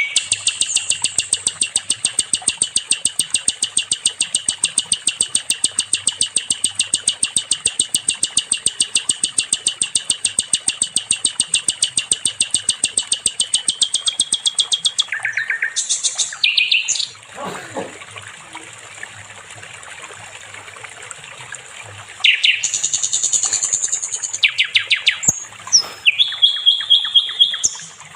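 Sikatan londo songbird singing: a long, fast, rattling trill of high repeated notes lasting about fifteen seconds. Then come varied whistles, one of them sliding steeply down, a short lull, and more rapid trills near the end.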